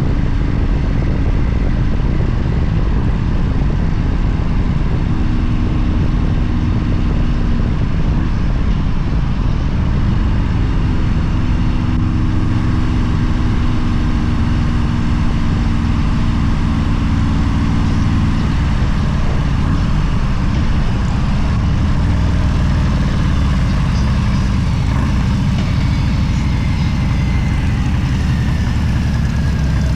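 Motorcycle running at a steady cruising speed, its engine drone mixed with heavy wind rush, the engine pitch shifting slightly now and then.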